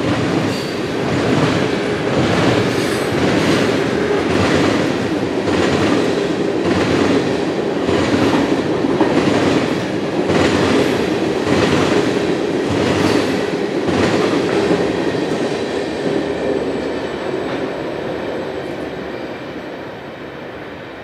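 Manifest freight train rolling past, its wheels clacking over rail joints in a regular rhythm over a steady rumble. The sound fades away over the last several seconds as the train moves off.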